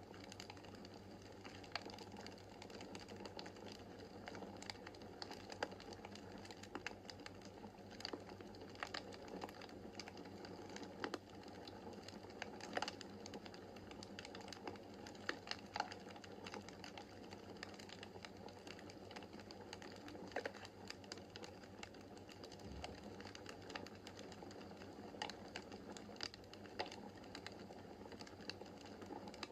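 Wood fire burning in a fireplace, a steady soft rush of flames with irregular crackles and small pops from the burning logs, a few pops louder than the rest.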